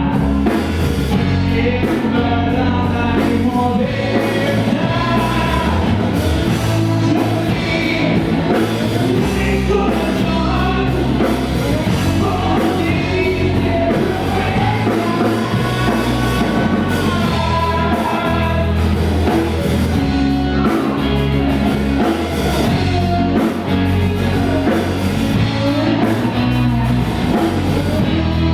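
A rock band playing a song with a singer: drums, guitar and bass under a sung melody line.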